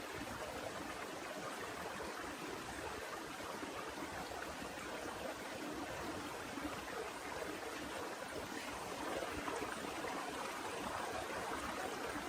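Heavy rain falling as a steady wash of noise, swelling slightly about three-quarters of the way through.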